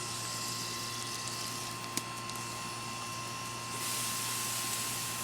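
Garden hose spraying water, a steady hiss that gets louder about four seconds in, with a single sharp click about two seconds in.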